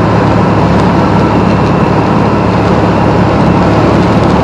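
Engine and propeller of a Piper Comanche 250 (a six-cylinder Lycoming O-540) running steadily, heard from inside the cabin on landing approach: a constant low drone with a dense rushing noise over it.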